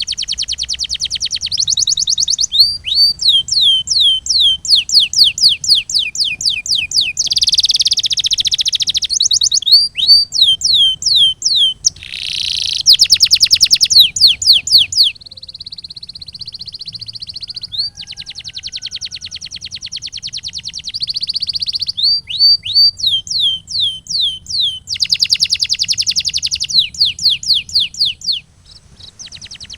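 Domestic canary singing a long continuous song, switching between rapid trills and runs of repeated downward-sliding whistles, about three a second, with one steadier held passage around the middle.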